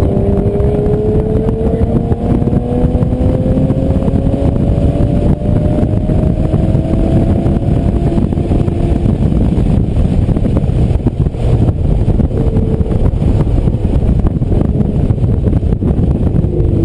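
Aston Martin DBS V12 running hard under load, heard from inside the cabin with heavy road and wind noise. The engine note climbs slowly through the first half as the car accelerates, then holds under the road noise.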